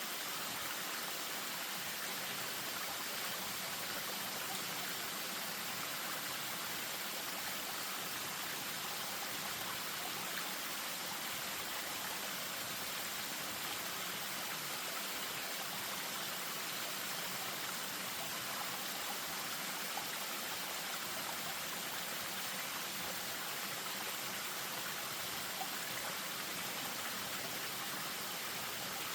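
Spring-fed stream running over a small waterfall, a steady rushing of water.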